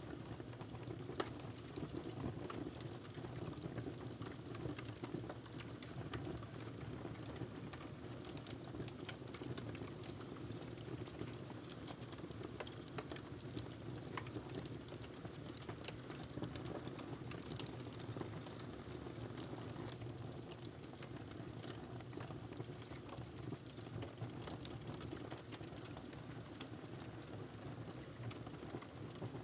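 Wood fire crackling in a fireplace: a steady low rumble of burning with frequent small pops and snaps, and one louder pop about a second in.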